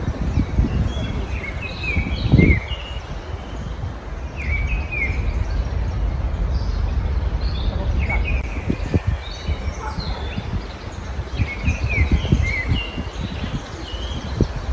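Small songbirds chirping in short clusters of quick notes, about four bursts, over a steady low background rumble.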